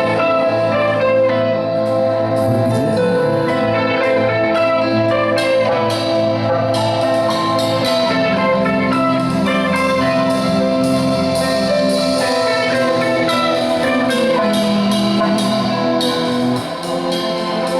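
Live band music without vocals: held chords over a steady drum beat, dipping briefly in loudness near the end.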